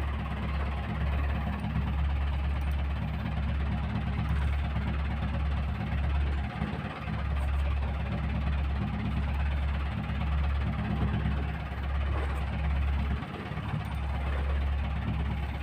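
A boat's engine running steadily with a low rumble, which drops away briefly twice.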